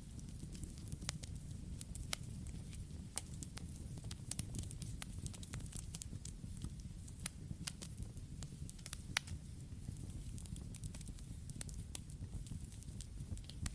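Wood campfire burning with a low, steady rumble of flames and irregular sharp crackles and pops, a few louder snaps standing out.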